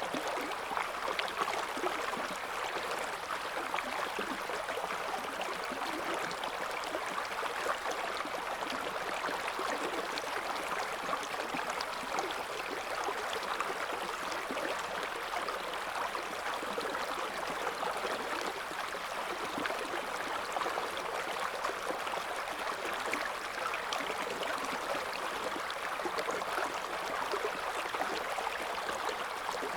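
River water flowing and gurgling over stones in a steady, even rush with fine splashing detail.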